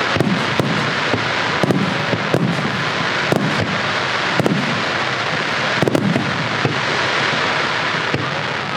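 Fireworks display in full barrage: a dense, continuous crackle and hiss of bursting shells with many sharp bangs, several a second, throughout.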